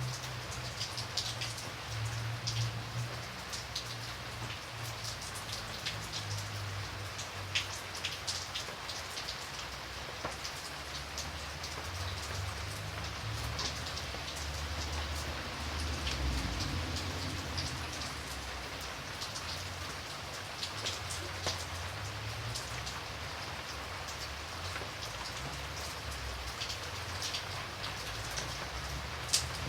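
Steady rain falling, with individual close drops striking sharply and irregularly over a low rumble.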